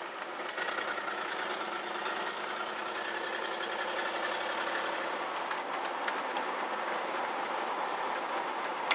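Interior sound of a 1965 Ford Galaxie 500 being driven: the engine running and a steady road and tyre noise, with a couple of faint ticks.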